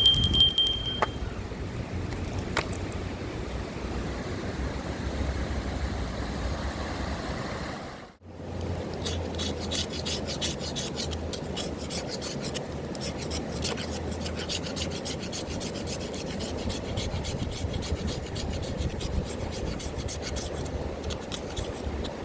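Rasping, scraping strokes. After a brief break about eight seconds in, they come quick and evenly repeated.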